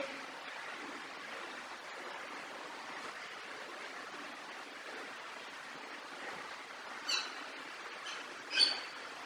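A steady hiss of outdoor background noise, with two short, high bird calls near the end, the second louder than the first.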